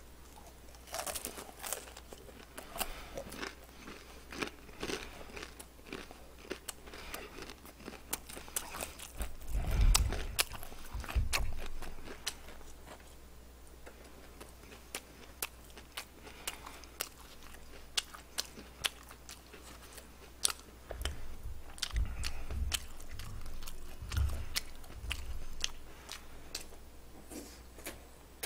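A person chewing fried chicken close to the microphone, with many sharp, crackly crunches. A few dull low thumps come about ten seconds in and again between about 21 and 25 seconds.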